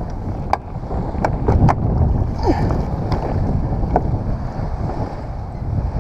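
Strong wind buffeting the microphone over choppy waves slapping against a kayak, with a few sharp splashes or knocks against the hull.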